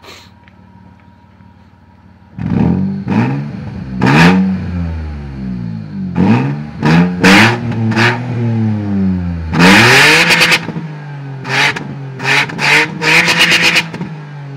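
Opel Vectra B 2.5 V6 engine revved through the exhaust in a series of quick throttle blips from about two seconds in, each rising and falling in pitch. About ten seconds in comes one longer, higher rev, then a fast run of blips, before it drops back to a steady idle near the end.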